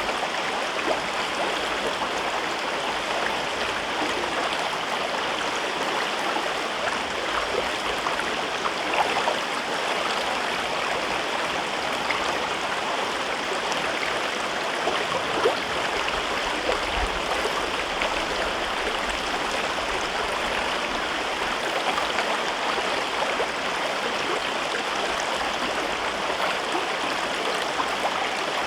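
A river flowing through a rocky gorge: steady rushing and babbling water, with small splashes and gurgles on top.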